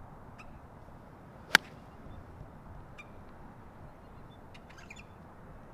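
A golf club striking the ball on a tee shot: one sharp crack about one and a half seconds in. Faint bird chirps and a low outdoor hiss lie underneath.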